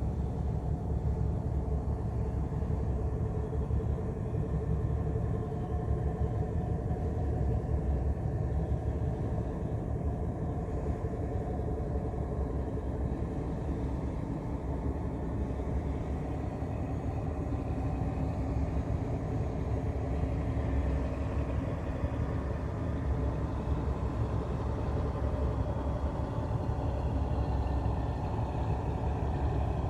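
A ship's engine running steadily: a continuous low rumble with a faint hum over it.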